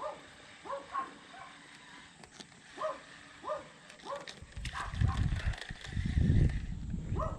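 An animal calling in short, repeated calls, one every half second to a second. About four and a half seconds in, a louder low rumbling noise sets in and becomes the loudest sound.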